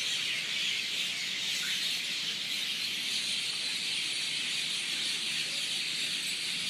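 Steady outdoor field ambience: a dense, unbroken high-pitched chorus with bird calls, even in level throughout.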